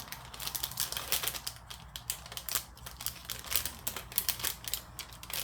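Plastic packaging handled and packed away by hand: a quick, irregular run of small clicks and crinkles, like light tapping.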